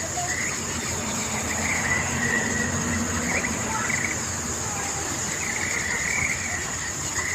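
Insects shrilling in a steady high-pitched drone, with a fainter wavering call coming and going several times over it.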